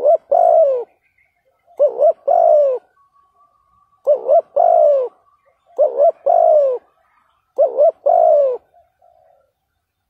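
Spotted dove cooing: five phrases about two seconds apart, each a quick double note followed by a longer falling coo. The calling stops about nine seconds in.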